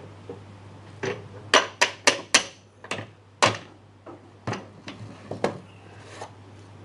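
Hard wooden knocks and clacks as small wooden cabinet parts are handled and knocked together. About a dozen uneven knocks come in all, with a quick run of four sharp ones about a second and a half in, then scattered lighter ones that stop a little over five seconds in.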